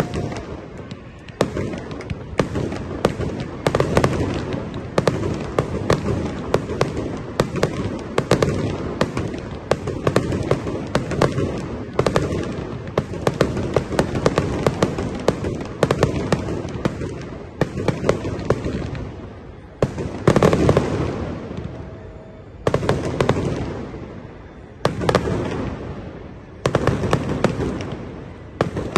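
Fireworks display: a dense, continuous barrage of bangs and crackling, with a few brief lulls in the second half before it picks up again.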